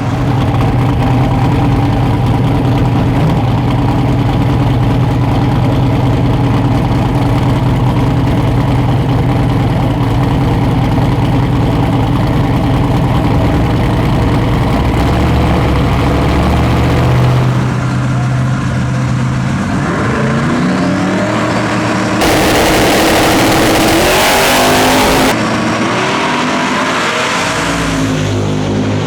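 Donk drag cars' big V8 engines running loudly and steadily, then revving with rising pitch from a little past halfway. Near the end comes a loud rushing burst about three seconds long, followed by more revving.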